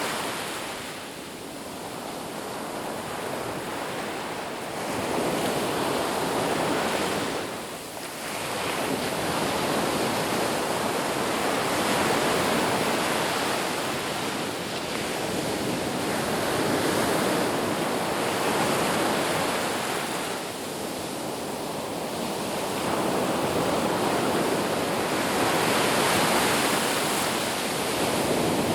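Ocean surf: waves washing ashore in a continuous rushing noise that swells and ebbs every several seconds.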